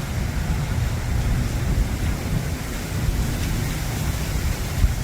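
Gusty tropical-storm wind buffeting the microphone as a loud, uneven low rumble over a steady rushing noise.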